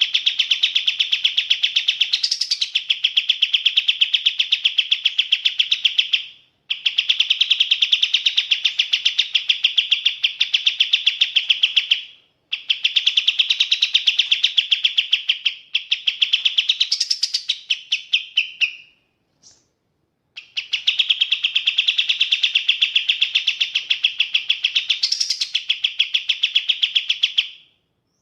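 Kapas tembak songbird calling in long runs of rapid, evenly repeated chirps, several seconds each, separated by short pauses.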